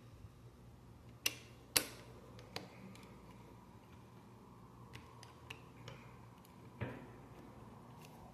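Plastic Lego bricks clicking as they are handled and pressed together, a string of sharp irregular clicks with the two loudest close together about a second and a half in.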